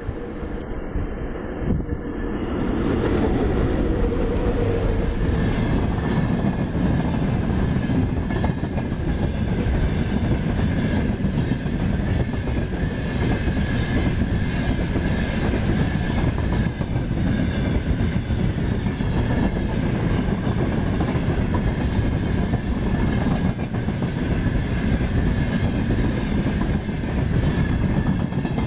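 Freight train behind a VL80S electric locomotive rolling past: the noise builds over the first few seconds, then a steady loud rumble of wagons with wheels clattering over rail joints and a steady high ringing tone.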